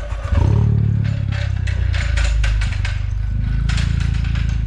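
Honda Civic Type R FK8's turbocharged 2.0-litre four-cylinder starting up: it fires a moment in, its revs flare and drop, and it settles into a steady fast idle with a light mechanical clatter on top.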